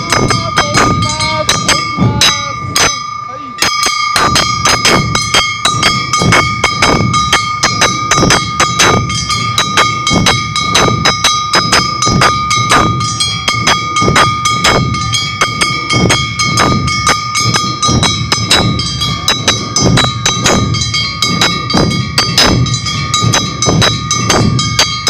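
Awa Odori festival band playing: drums and small hand-struck gongs beat a fast, even rhythm over a steady high ringing, with voices calling out near the start. The beat drops out briefly about three seconds in, then picks up again.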